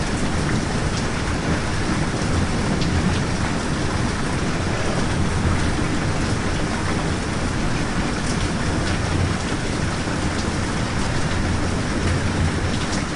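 Steady rain, with a low rumble underneath and a few faint drop ticks.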